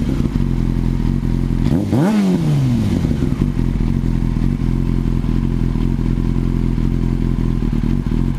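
2006 Yamaha R6S inline-four sport bike idling through a Danmoto GP carbon fibre aftermarket exhaust, with one quick throttle blip about two seconds in that rises and falls back to a steady idle.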